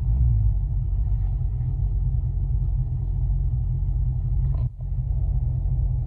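Car exhaust through turbo mufflers, heard inside the cabin: a steady low rumble while driving. It briefly drops out about four and a half seconds in.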